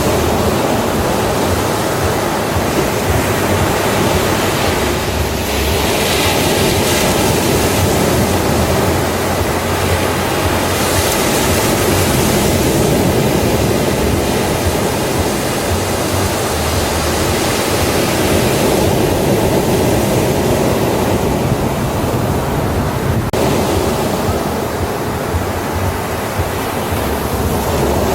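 Ocean surf on a beach: a steady rush of waves, with brighter hissing swells about six and eleven seconds in as waves break and wash up.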